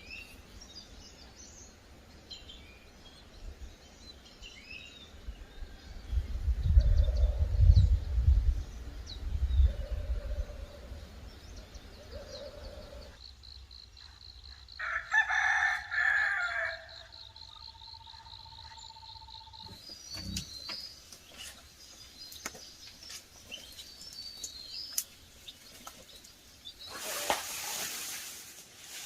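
A rooster crows once, about halfway through. It is preceded by a few seconds of loud low rumbling and set against faint bird chirps.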